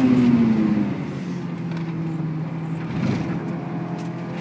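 Honda S2000's four-cylinder engine heard from inside the cabin, its revs dropping over the first second and then holding a steady lower note.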